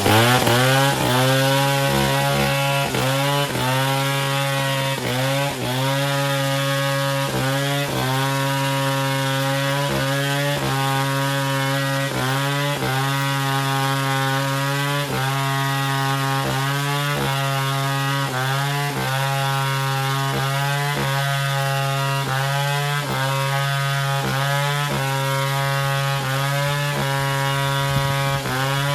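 Chainsaw engine revving up and running at high speed, its pitch dipping briefly and regularly about every two-thirds of a second.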